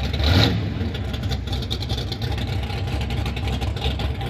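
A vehicle engine running steadily with a low rumble, with a brief louder surge about half a second in.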